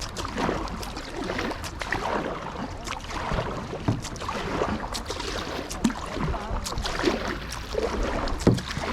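Kayak paddling on a river: water splashing and rushing, with irregular knocks and splashes from the paddle strokes.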